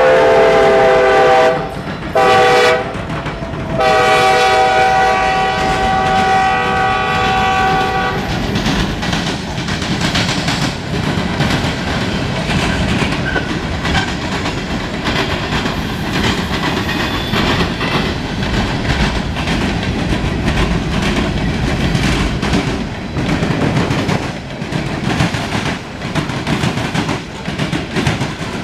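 Norfolk Southern diesel freight locomotive sounding its horn: the end of one long blast, a short blast, then a long blast of about four seconds, the close of a long-long-short-long grade-crossing signal. The train then passes with a steady rumble and the clickety-clack of freight car wheels over rail joints.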